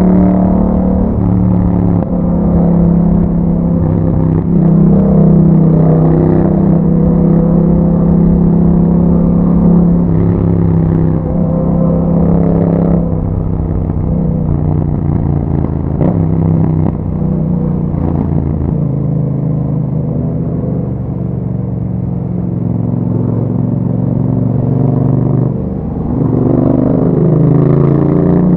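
A 2021 Yamaha MT-07's parallel-twin engine running under way through an Akrapovic exhaust, its pitch rising and falling several times as the rider works the throttle and gears. Near the end the engine note dips briefly, then climbs again under acceleration.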